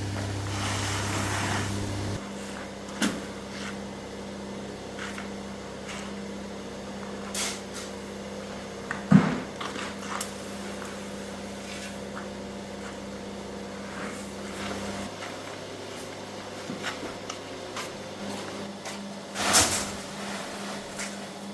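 Plastics workshop machinery humming steadily, with scattered clanks and knocks. A low hum cuts out about two seconds in, and a second steady tone stops around fifteen seconds in.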